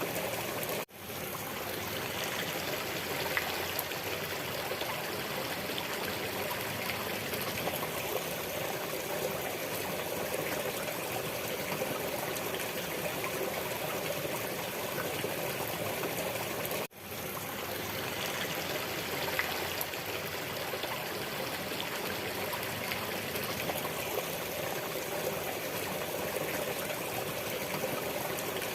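A stream of water flowing and trickling steadily. It cuts out briefly twice, about a second in and again about seventeen seconds in, each time fading quickly back in as the recording loops.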